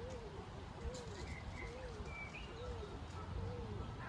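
A pigeon cooing in a steady run of rising-and-falling notes, about one every two-thirds of a second. A few short high chirps from a small bird come in partway through, over a low steady rumble.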